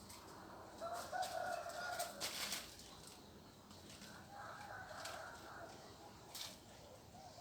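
A rooster crowing twice, each crow a long call of nearly two seconds, with a few short sharp sounds between and after the crows.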